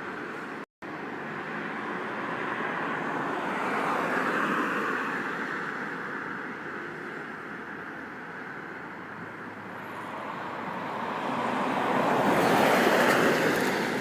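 Rushing whoosh of a huge flock of birds' wings. It swells as the flock sweeps past about four seconds in and again, louder, near the end.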